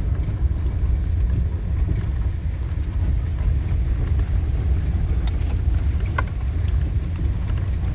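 Steady low rumble of a 2014 Ford Econoline E-250 van driving, heard from inside the cab, with a faint click about six seconds in.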